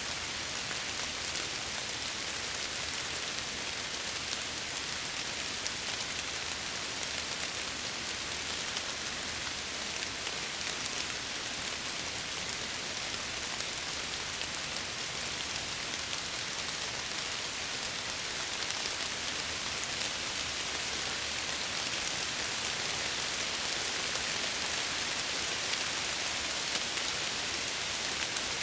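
Steady heavy rain falling, a dense even hiss with fine pattering of drops against window glass.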